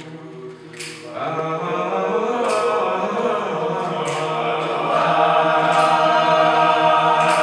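Men's a cappella choir holding a sustained closing chord without words, soft at first, swelling about a second in and growing louder again near the end.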